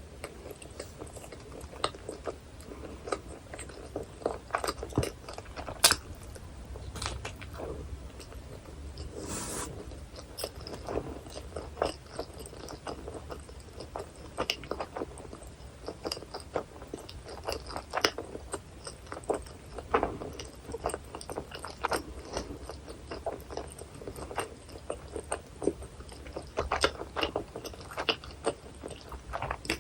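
Close-miked chewing and biting of a hot dog topped with onion, chili and cheese sauce: irregular wet mouth sounds with many short, crisp clicks.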